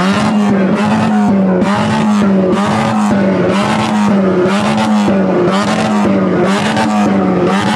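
Loud car engine revving over and over, in repeated surges about once a second.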